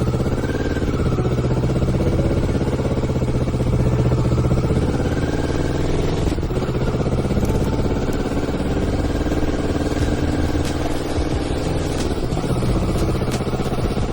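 Motorcycle engine running under way, its note rising and falling slightly with the throttle, over a steady hiss.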